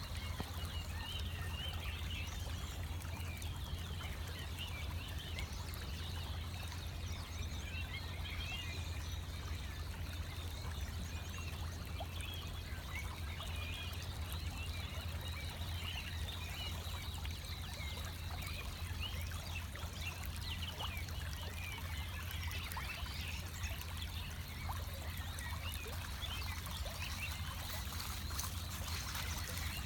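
Steady trickle of running water with many small chirping bird calls scattered over it, a pre-dawn chorus.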